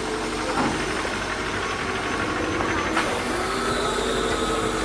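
Suzuki Swift hatchback's engine running steadily at idle, with a single click about three seconds in.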